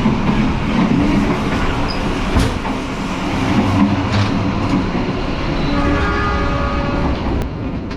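Passenger train running at speed: a loud, steady rumble and rattle of the carriages with scattered knocks. About six seconds in, the locomotive's horn sounds for about a second and a half.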